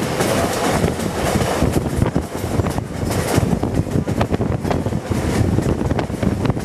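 Wind buffeting the microphone out of the open side of a moving passenger train, over the train's steady rolling rumble and irregular knocks from the wheels on the track.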